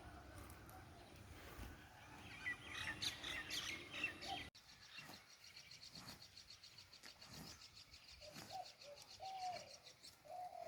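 Faint birdsong: a cluster of short high chirps, then after a brief dropout a fast, high, evenly pulsing trill with a few lower short calls.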